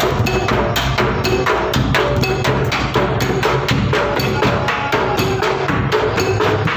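Bedug, the large Indonesian mosque drum, beaten in a fast, unbroken rhythm of many strokes a second, with sharp wooden clacks among the deep beats, for takbiran on the eve of Eid al-Fitr.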